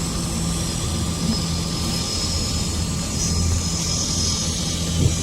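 Boat engines running at a steady drone, with a hiss of wind and water over it.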